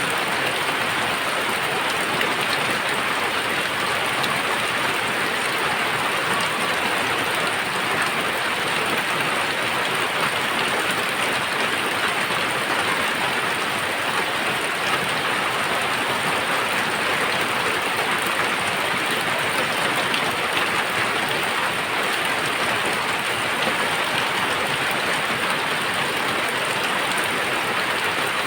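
Very heavy rain pouring steadily, a dense, even hiss of drops striking surfaces.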